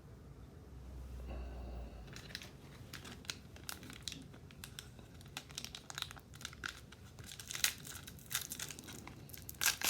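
A trading-card pack wrapper being torn open and crinkled by hand: a run of sharp crackles and rips, starting about two seconds in and growing louder toward the end.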